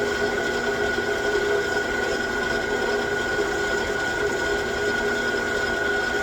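9x20 gear-head engine lathe running, a steady geared motor whine made of several constant tones, the highest and strongest a clear high note.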